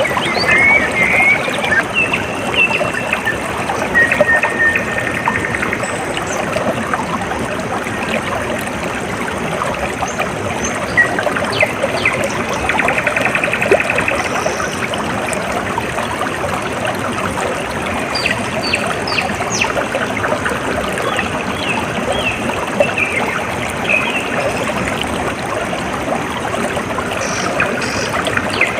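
Water trickling and splashing steadily, like a small stream, with birds chirping and giving short buzzy trills over it at intervals.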